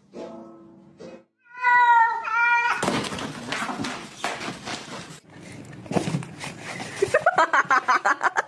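Domestic cat meowing: a few wavering meows, then a noisy stretch of several seconds, and a quick string of short calls near the end.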